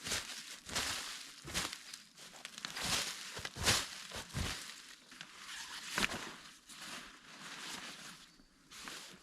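Irregular crunching and rustling from a person moving about and working on the ground, with the loudest crunches a little under four seconds in and around six seconds.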